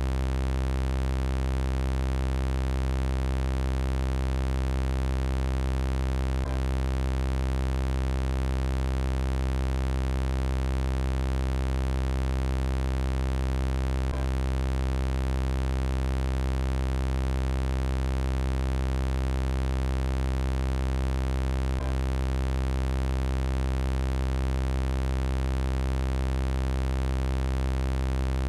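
Robot-voice sound effect: a steady synthesized electronic buzz held at one low pitch, rich in evenly spaced overtones, with no change in level. A faint click comes about every seven and a half seconds.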